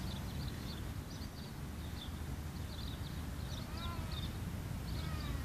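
Small birds chirping in short, repeated high notes over a steady low rumble, with a brief wavering call near the end.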